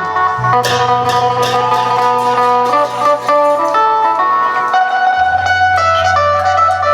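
Amplified Isan phin (northeastern Thai plucked lute) playing a fast picked melody over long held bass notes, with a few sharp percussion hits in the first couple of seconds: Isan klong yao procession music.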